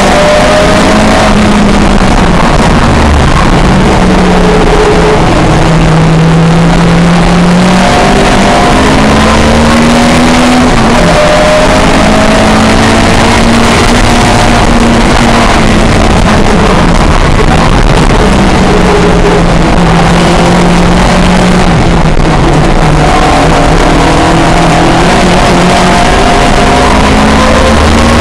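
Historic pre-1966 touring car engine running hard at race speed, loud and continuous, its pitch rising and falling repeatedly as it accelerates and slows.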